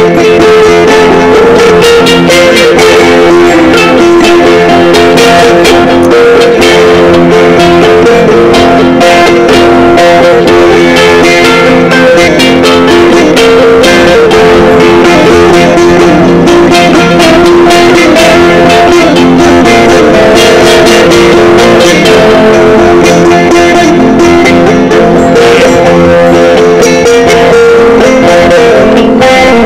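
Sape, the boat-shaped plucked lute of the Dayak of Borneo, playing a continuous run of plucked notes over steady held low notes.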